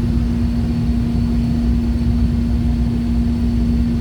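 Inside a moving Newark Airport AirTrain monorail car: a steady drive hum with a constant low tone over a low rumble.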